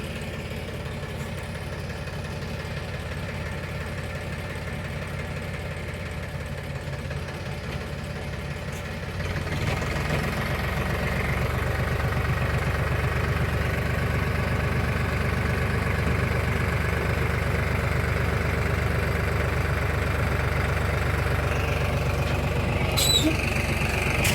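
Tractor diesel engine running steadily at low revs, growing louder about nine seconds in and holding there, with a brief high squeal near the end.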